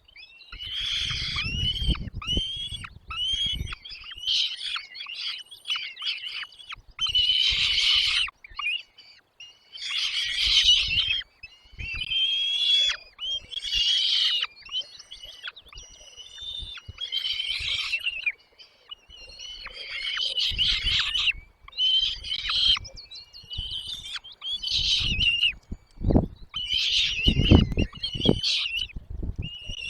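Small birds chirping in repeated high bursts about a second long, typical of nestlings begging for food in the nest, with a few low bumps near the end.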